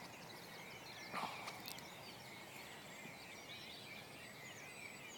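Faint birdsong: many small high chirps and short trills over a steady low background noise, with one brief soft noise about a second in.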